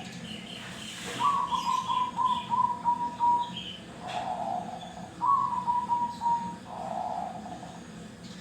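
Zebra dove (perkutut) singing: two runs of quick staccato coos, each stepping slightly down in pitch and ending in a lower rolling coo. Fainter, higher chirps are heard in the first half.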